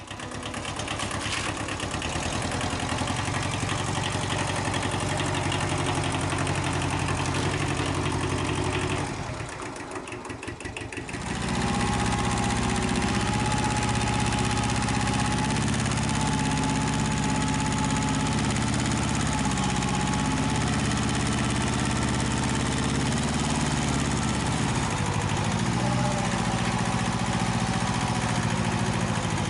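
Kubota L175 tractor's small two-cylinder diesel engine running steadily. It dips briefly about nine seconds in, then runs louder with a faint high whine on top.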